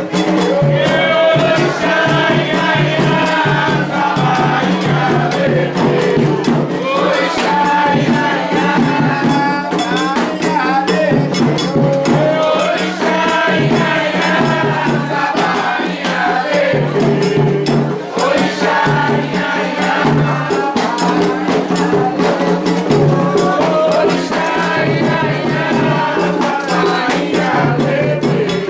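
Group of voices singing a Candomblé devotional chant over a steady drum beat and shaken rattles.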